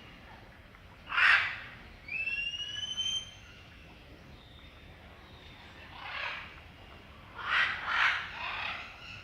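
Birds calling: a loud harsh squawk about a second in, a rising whistled call just after, and a run of three more squawks near the end.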